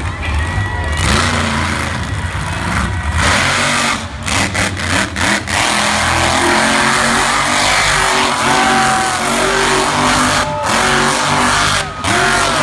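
Monster truck engine revving hard, its pitch repeatedly rising and dropping with the throttle, with a few brief sharp cut-outs a third of the way in.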